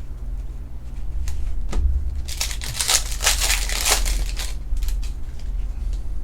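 Trading-card pack wrapper crinkling and tearing as it is handled and opened: a few light clicks, then about two seconds of dense rustling in the middle.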